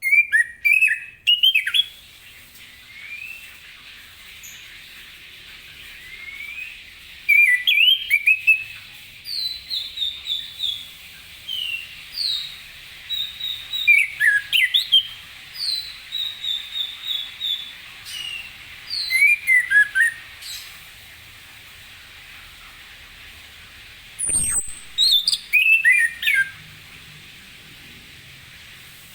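Chestnut-capped thrush (anis kembang) singing: bursts of varied whistled phrases, some made of runs of short falling notes, separated by pauses of a few seconds.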